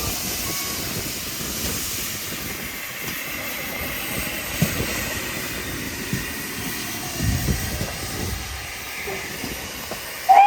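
Steam locomotive letting off steam: a steady hiss that slowly fades, with a few low thumps around the middle. A steam whistle starts right at the end.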